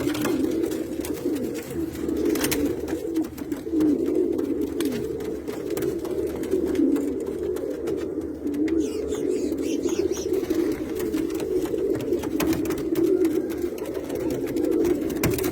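Several Pakistani pigeons cooing at once, their low calls overlapping into a continuous warbling, with a few sharp knocks.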